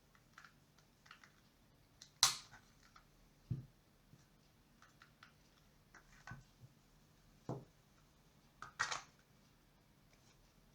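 Scattered light clicks and knocks of small hard objects being handled, with the sharpest click about two seconds in and a quick double click near the end, over a faint low hum.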